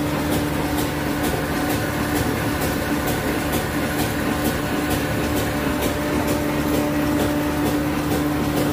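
Old diesel engine running steadily at a slow, even speed, with a sharp knock about three times a second over a steady hum.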